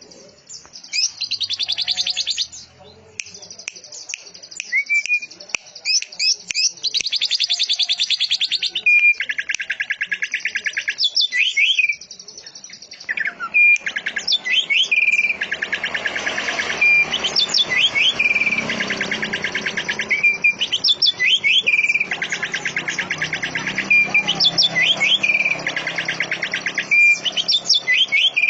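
Songbird singing: bursts of rapid buzzy trills, each about a second long, alternating with quick rising and falling whistled notes, repeated over and over. A fainter background hiss joins about halfway through.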